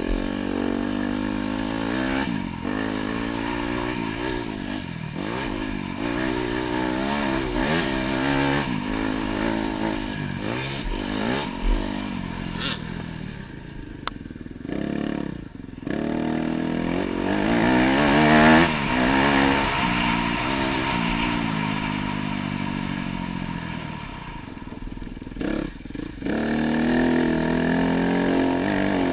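Dirt bike engine being ridden hard, revving up and falling back over and over as it shifts and works the throttle. The throttle is chopped briefly a few times, and there is mechanical clatter.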